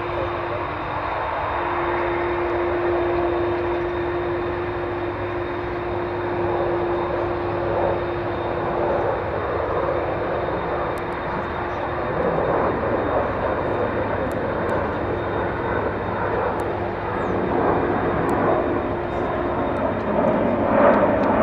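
Jet airliner engines at takeoff power: a steady rush of noise with a held tone in it, growing a little louder near the end.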